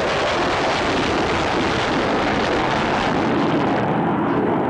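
Loud roar of a jet aircraft passing overhead at an airshow. The high hissing part of the noise fades about three and a half seconds in.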